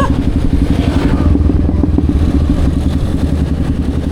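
Yamaha XSR155's single-cylinder engine running at a steady speed as the motorcycle is ridden.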